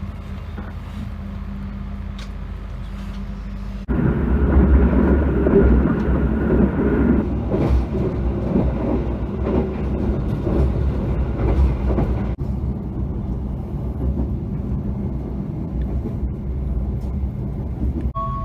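Passenger train sounds: a steady low hum with a faint held tone, then about four seconds in an abrupt jump to a louder, rougher rumble. The rumble drops back to a quieter level about two-thirds of the way through.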